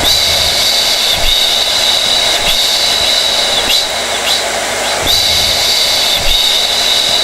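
Hair dryer running steadily: a constant rush of air with a high whine from its fan motor.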